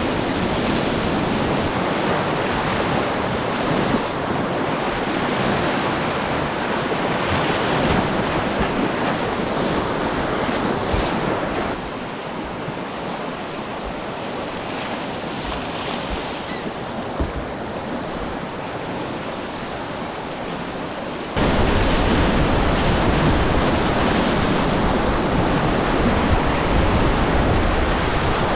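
Whitewater rapids rushing, a loud steady wash of noise. It drops suddenly quieter about twelve seconds in, and suddenly comes back louder, with a deeper rumble, about twenty-one seconds in.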